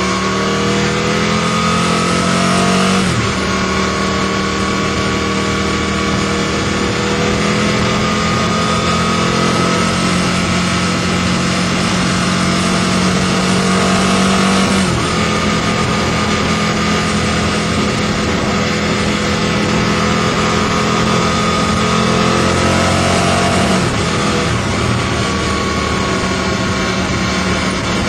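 Aprilia RSV Mille's V-twin engine through a Micron aftermarket exhaust, pulling under way over a steady rushing noise. The revs climb in the first few seconds, then drop sharply about three seconds in, again halfway through and once more near the end, holding steady in between.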